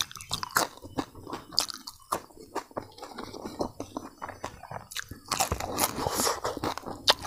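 A person chewing a mouthful of crispy fried grasshoppers, with a quick, irregular run of sharp crunches.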